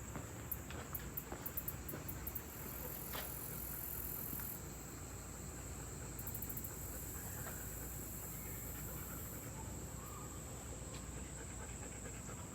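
Insects calling in the woods: quick trains of very high-pitched chirps and a high steady buzz that starts and stops several times. Soft footsteps are heard in the first couple of seconds.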